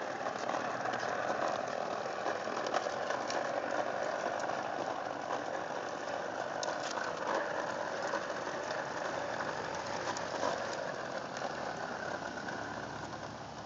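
A lawn mower being pushed along a sidewalk, giving a steady mechanical whir with scattered clicks as it rolls.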